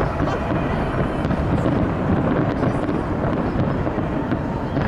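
Steady crowd ambience with wind rumbling on the microphone.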